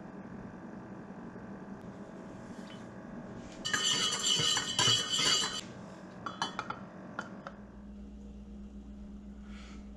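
Light clinking and clattering of hard objects for about two seconds near the middle, followed by a few single clicks, over a steady low hum that changes in tone about seven and a half seconds in.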